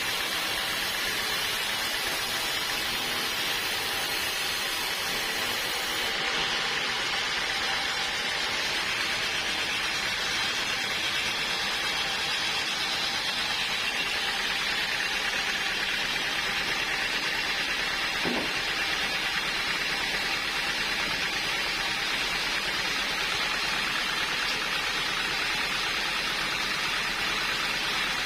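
Sawmill machinery running steadily with a continuous noisy whir, with one short squeal about two-thirds of the way through.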